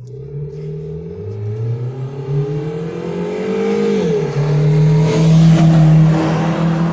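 Car engine and exhaust accelerating hard: the note climbs steadily, drops sharply about four seconds in, then holds steady and louder.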